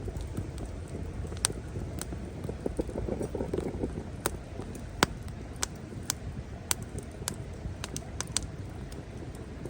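Wood fire crackling in a small solo fire pit: irregular sharp pops and snaps over a steady low noise.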